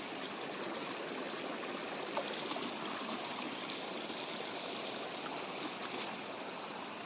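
Flowing river water, a steady rushing noise.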